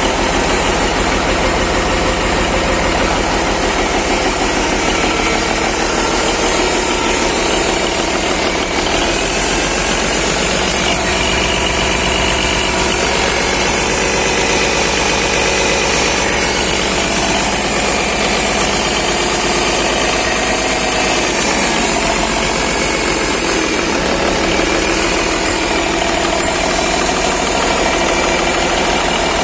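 Cummins NT855 inline-six diesel engine running steadily after a major overhaul.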